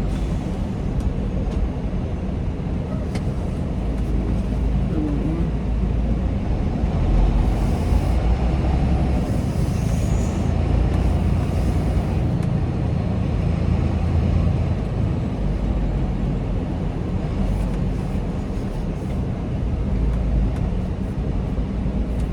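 Steady engine and road noise heard from inside a moving semi truck's cab, a continuous low rumble.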